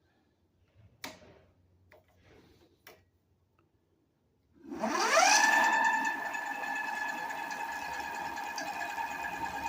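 A few faint clicks, then about halfway through the Bigniu BG-X e-bike's 1500-watt geared rear hub motor spins up: a whine rises quickly in pitch, then levels off into a steady, loud whine made of several tones.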